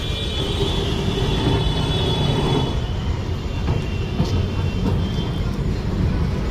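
Electric tram running on its street rails, a steady rumble with a faint high whine over it in the first few seconds and a few light clicks.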